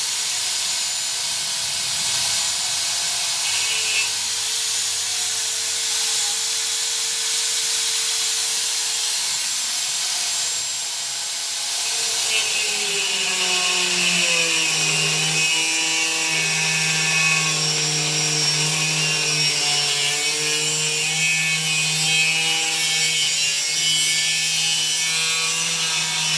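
Electric angle grinder with a cutting disc, running continuously while it cuts a piece of galvanized steel, with a loud high-pitched grinding hiss. About halfway through, the motor's pitch dips and then holds at the lower note.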